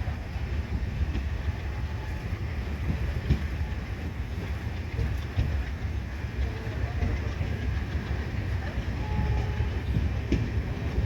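Indian Railways passenger train moving along the station track: a steady low rumble of the coaches, with scattered faint clicks from the wheels.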